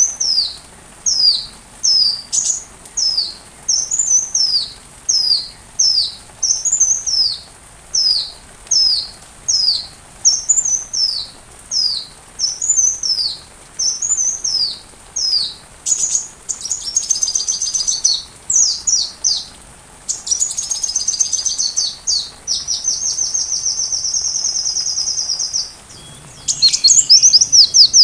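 A sunbird, the small bird Indonesian keepers call 'kolibri', singing a high, evenly repeated down-slurred chirp about one every second for half the time. It then breaks into fast, high trills, with one long steady trill near the end.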